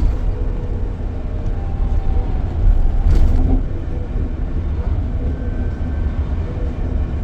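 Scania K440EB coach under way: a steady, heavy low rumble of engine and road noise, with faint whining tones over it. A brief knock or rattle comes about three seconds in.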